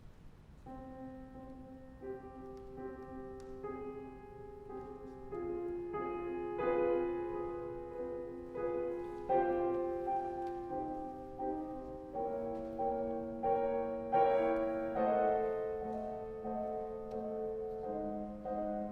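Slow instrumental keyboard music: sustained notes and chords that begin about a second in and grow gradually louder.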